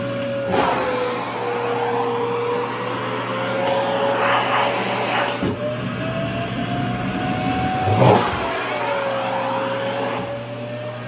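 Vacuum cleaner running with skirt fabric being drawn into its nozzle: the motor's pitch sags and rises as the intake is partly blocked and freed, with a few brief rushes of air and flapping cloth.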